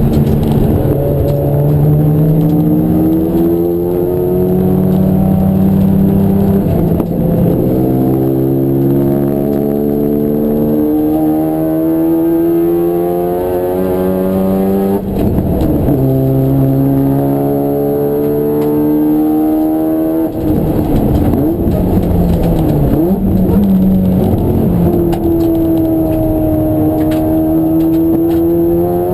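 Race car engine accelerating hard through the gears. The pitch climbs and drops back at upshifts about seven and fifteen seconds in. A few seconds after twenty seconds in, a run of quick dips and rises fits braking and downshifting, and then it pulls up again near the end.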